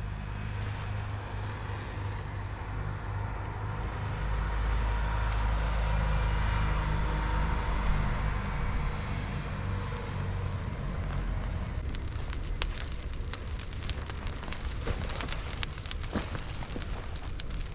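An engine hums steadily at first and fades after about ten seconds. From about twelve seconds in, a brush fire crackles with many sharp pops as the paper and cut cedar catch.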